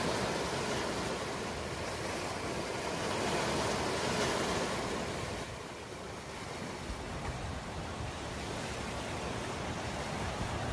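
Ocean waves breaking and washing on a shore, a steady surf noise that swells about four seconds in and ebbs a couple of seconds later.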